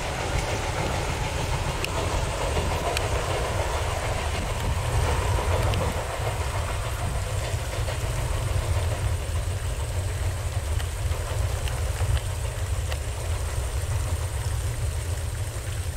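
Passenger train coaches rolling away over the rails, wheels clicking over the track under a steady low rumble. The wheel noise thins out after about six seconds as the train recedes.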